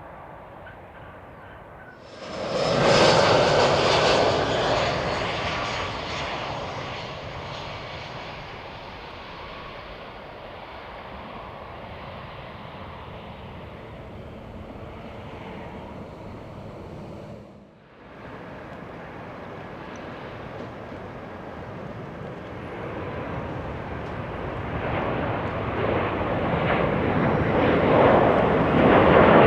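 Jet airliner engines. An Airbus A319's engines come in loud about two seconds in and slowly fade over some fifteen seconds. After a short break, an Airbus A330-300's engines grow steadily louder toward the end.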